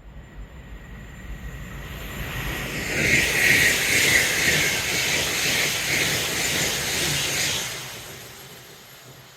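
A train passing through at speed: wheel-on-rail noise and rushing air that build up, stay loud for about four seconds starting about three seconds in, then fade away as it recedes.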